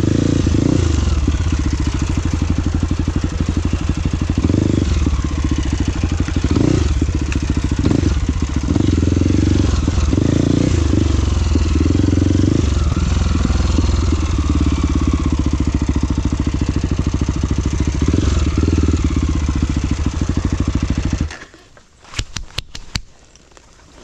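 Trail motorcycle engine running, then shut off abruptly about three seconds before the end, followed by a few light clicks.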